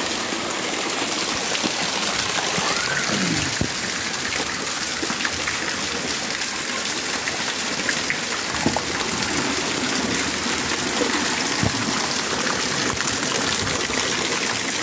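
Heavy rain pouring onto a flooded concrete patio: a steady rush and splash of water.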